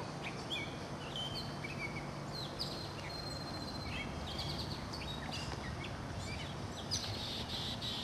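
Birds chirping: many short, high chirps and quick slurred whistles scattered throughout, over a steady outdoor hiss.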